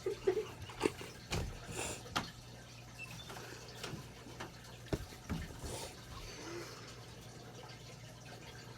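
Scattered light knocks and clicks of objects being handled, about a dozen in the first six seconds, over a faint steady hum.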